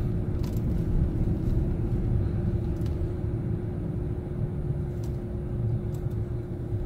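Chevrolet Silverado pickup driving, heard from inside the cab: a steady low rumble of engine and tyres with a constant hum over it.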